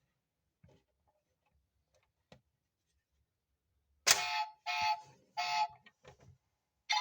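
Electronic sound chip of a 1:24 Mercedes-Benz Sprinter toy van playing loud buzzy beeps, three in a row about half a second each from about four seconds in, after a few faint clicks.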